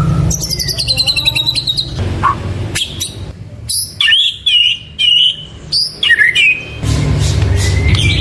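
White-rumped shama singing a varied song: a fast descending run of high notes in the first two seconds, then clear whistled phrases and sharp notes. A low steady rumble sits under it, dropping away in the middle and returning near the end.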